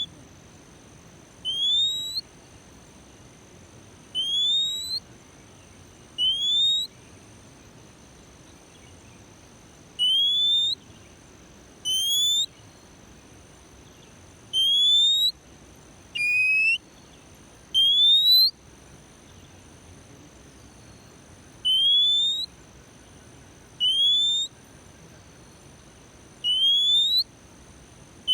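A bird's single rising whistled note, repeated about a dozen times at intervals of two to three seconds, one of them lower and falling. Faint steady high-pitched tones run underneath.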